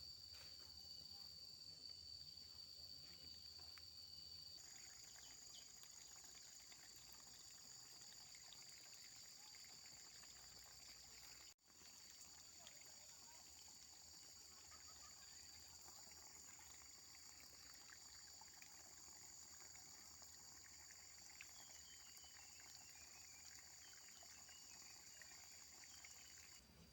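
Faint insect chorus, a steady high-pitched trilling, that changes abruptly a few seconds in and drops out for an instant near the middle.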